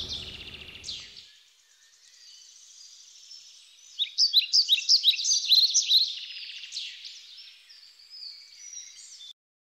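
Songbird singing: a run of quick high chirps and trills, loudest in the middle, then fainter, and cutting off suddenly near the end.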